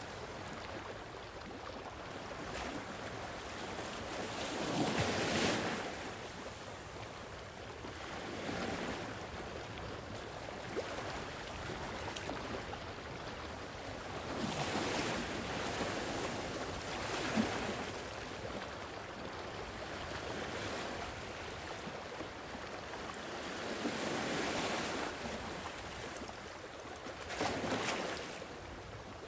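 Sea waves washing onto a shore, surging and falling back every few seconds over a steady hiss of surf.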